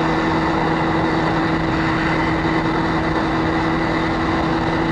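Motorcycle engine running at a steady speed under wind and road noise, heard from the rider's own bike while cruising.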